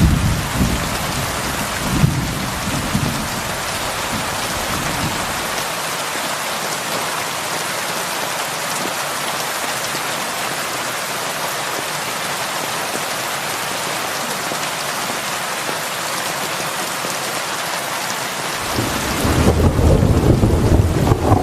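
Heavy rain falling steadily, a dense even hiss, with low rolls of thunder rumbling in the first few seconds and again near the end.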